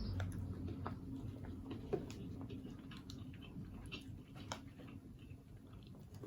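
Close-miked chewing and mouth sounds of someone eating: irregular small clicks and smacks, with a steady low hum underneath.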